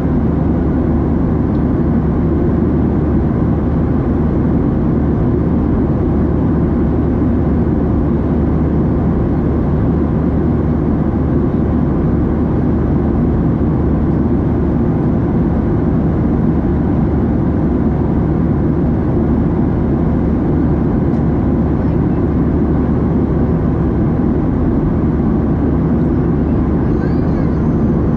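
Steady cabin noise inside a Boeing 737-700 in flight: an even low rumble and rush of the engines and airflow that holds unchanged.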